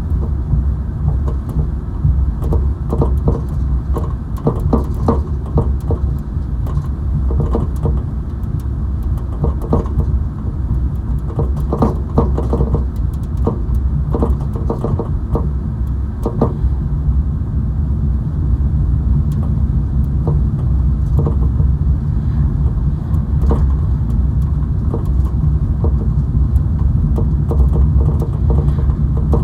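Steady low road and engine rumble heard inside a moving car's cabin, with frequent short clicks and knocks over the first half that thin out after that.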